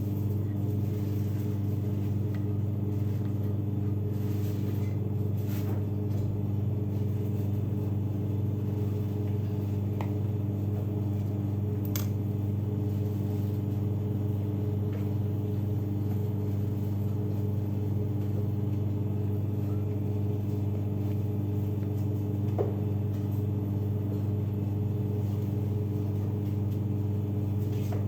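Steady low machine hum with no change in pitch, and a few faint ticks about 10, 12 and 22 seconds in.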